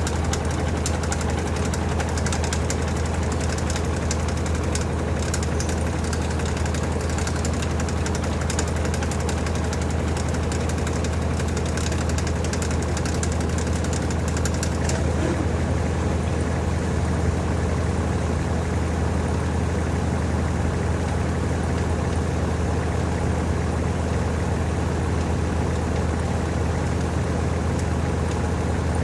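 LG TurboDrum WT-R852 top-loading washing machine in its spin cycle with a full load of bedding: a steady low motor hum, with a hiss of water that fades out about halfway through.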